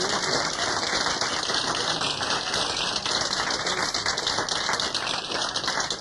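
Small studio audience applauding steadily, a dense patter of many hands clapping.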